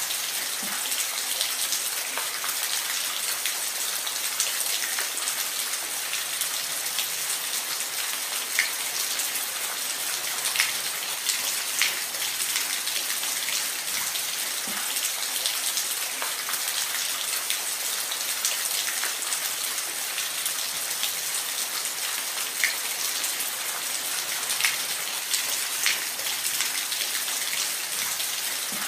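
Steady rain falling, an even hiss with individual drops ticking close by here and there.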